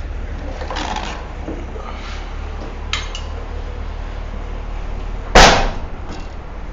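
A couple of light metallic clanks, then one loud sharp metallic bang a little over five seconds in, over a steady low rumble.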